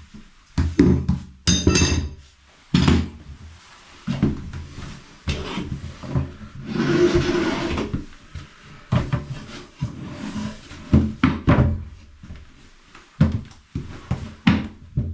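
Irregular knocks and thuds of wooden vanity-unit parts and tools being handled during a basin installation, with a brief scraping or whirring noise about seven seconds in.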